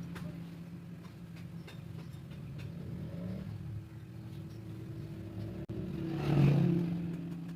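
Motorcycle engine running steadily, briefly revved about six and a half seconds in, then settling back.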